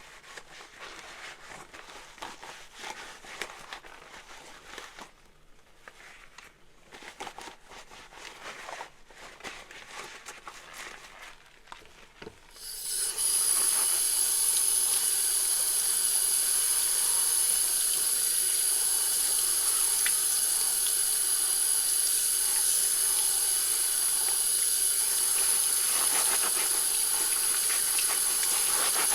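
Dishes and utensils clinking softly in a sink, then, a little under halfway through, the kitchen tap is turned on and water runs steadily and loudly from the faucet.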